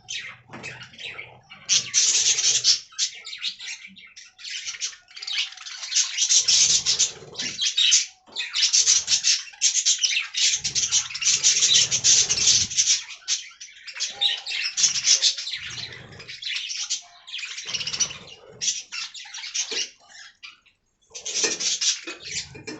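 Budgerigar chattering and warbling in bouts of a second or two, with short pauses between.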